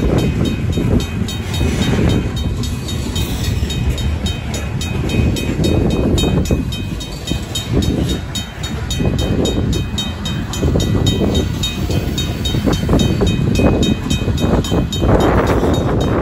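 Freight cars, covered hoppers then tank cars, rolling past at a crossing: the low rumble and clatter of steel wheels on rail rising and falling as each truck goes by, with a louder rush of wheel noise near the end. A RACO mechanical crossing bell rings over it, a fast, even ding.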